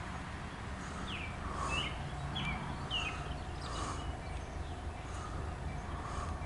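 Low steady rumble of an approaching CSX freight train's diesel locomotive, with a bird giving four short, quick sliding chirps from about one to three seconds in.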